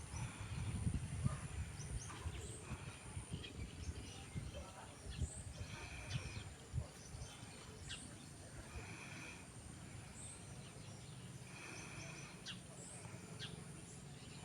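Swiftlets calling: scattered short, high chirps and brief buzzy twitters every second or two, over a low rumble that is strongest in the first two seconds.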